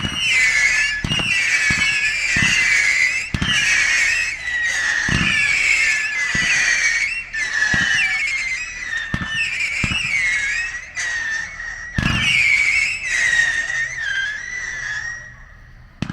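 Fireworks going off in a rapid barrage: shrill, wavering whistles with a bang every second or so, dying away near the end.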